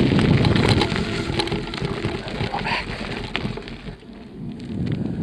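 Wind rumbling on the microphone and bicycle riding noise, easing off about a second in and dropping lowest near the end before building again. There are scattered light ticks, and one brief higher-pitched sound about midway.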